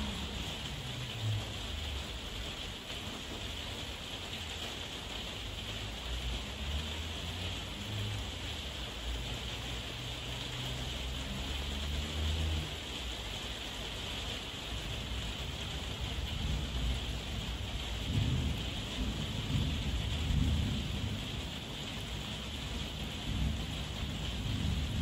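Heavy rain falling steadily as an even hiss, with low rumbles of thunder rolling in several times, longest over the last few seconds.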